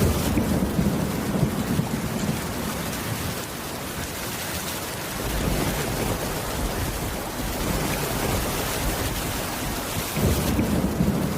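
Steady rain pattering on a roof, with low thunder rumbling at the start that fades within a few seconds and swells again near the end.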